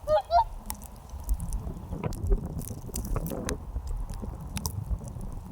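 A bird's honking call, once right at the start, followed by low rumbling noise with scattered clicks.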